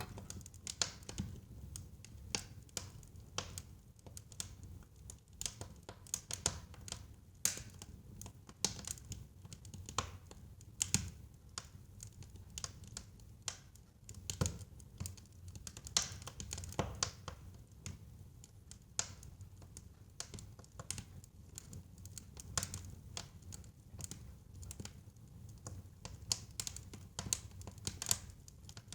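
Wood fire in a fireplace crackling, with frequent irregular pops and snaps over a low steady rumble of burning.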